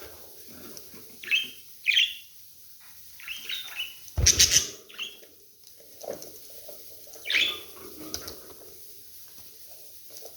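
Budgerigars chirping in short, scattered calls. About four seconds in there is a louder brief burst of noise, such as a bump or a flutter.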